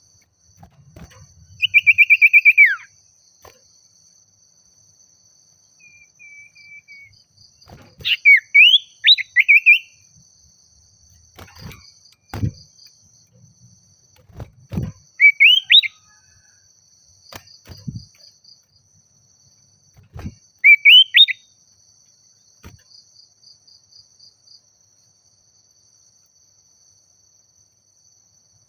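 Common iora (sirtu/cipoh) singing in short bursts of rapid, clear whistled notes, some rising and one a falling trill, repeated every few seconds: a lively territorial song meant to call a rival. A faint steady high whine runs underneath, and there are a few soft low thumps.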